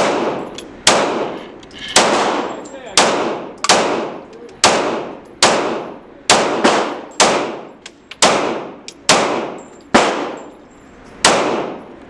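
A string of about fifteen gunshots at a shooting range, fired at an uneven pace of roughly one every half second to second, each with a ringing tail.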